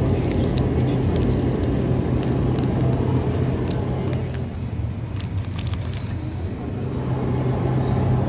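Steady low machine hum with a strong low drone, overlaid with scattered light clicks and clatter.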